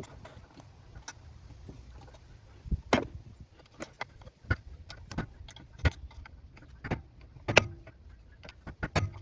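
Small metal parts and tools clinking and knocking as they are handled, in irregular sharp strikes, the loudest about three seconds in and near the end.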